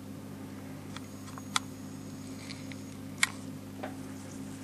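Small hard parts clicking as they are handled: 3D-printed plastic pieces and a bolt, with two sharp clicks standing out among a few faint ones, over a steady low hum.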